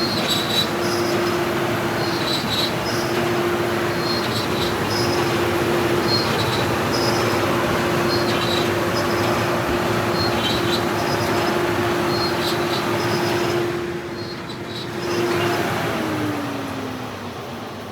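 Automatic car wash running: a steady hiss of high-pressure water spray over a constant pump hum, with short high chirps every half second or so. A few seconds before the end the spray stops and the pump winds down with a falling tone.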